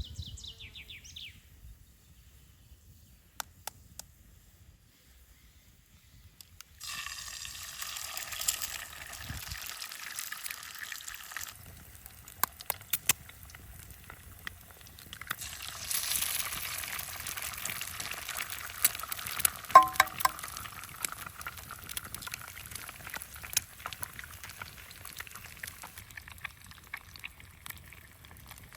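Liquid being poured, in two spells of a few seconds each with a hiss, among scattered light clicks and knocks, and one sharper knock midway.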